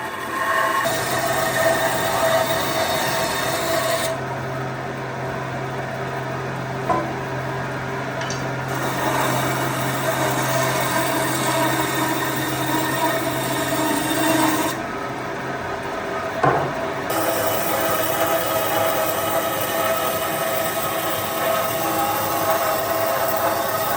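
Power tool running steadily as it works wood, with the tone of the machine changing abruptly several times.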